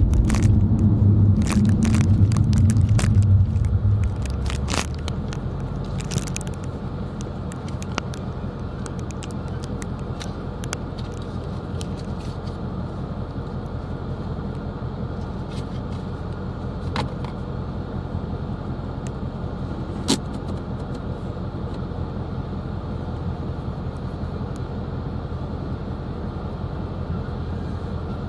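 Steady low road and engine drone inside a moving car's cabin, louder for about the first four seconds and then settling lower, with scattered small clicks and rattles.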